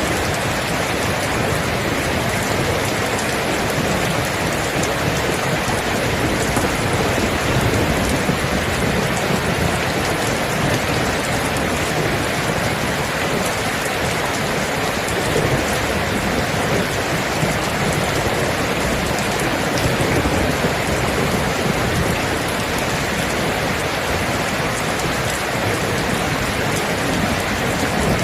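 Steady, heavy rainfall: a dense, even hiss of rain falling on a surface, with no let-up or change in strength.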